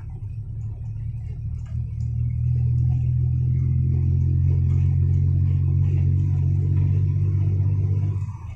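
Isuzu Deca dump truck's diesel engine running hard, its low hum building over the first couple of seconds and then holding steady before dropping off suddenly near the end.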